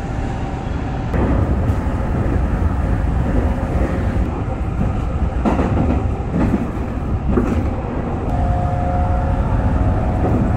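Electric commuter train running, heard from inside the front car: a steady rumble of wheels on rail with occasional clacks over rail joints, growing louder about a second in. About eight seconds in, two steady tones join the rumble.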